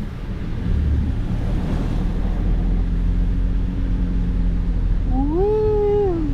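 Steady low rumble of a car on the move, road and engine noise. Near the end a person holds one long hummed note that rises, holds and falls.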